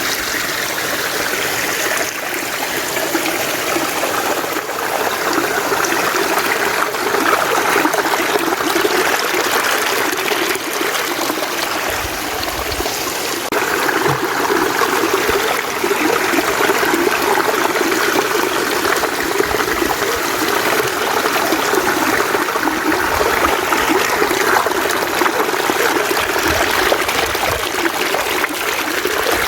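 Mountain stream flowing steadily, a continuous babble and trickle of running water.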